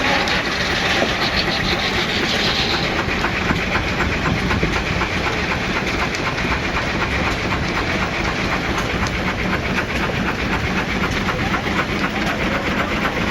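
Nichols and Shepard 20-75 steam traction engine working under load driving a sawmill, its exhaust chuffing in a fast, steady beat. A higher hiss sits over the first two or three seconds and then stops.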